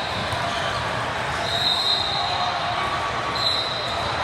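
Basketball game sounds in a gym: a ball bouncing on the court amid a steady din of voices, with a couple of brief high-pitched squeaks.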